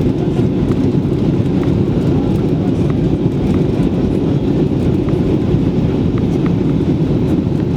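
Steady low roar of cabin noise aboard an Airbus A320 airliner: engine and airflow noise during the approach, with a few faint light ticks.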